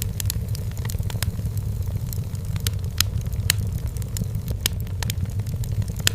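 Wood fire burning in a fireplace: irregular sharp crackles and pops, a few each second, over a steady low rumble of the flames.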